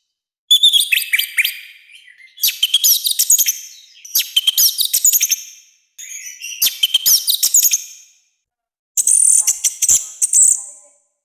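Orange-headed thrush singing a loud, harsh song: about five fast phrases of sharp whistled and chattering notes, each a second or two long, with short pauses between them.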